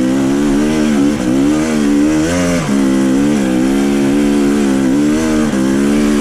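Dirt bike engine running at low revs, the throttle worked up and down so the pitch wavers, with a few brief dips where it is let off.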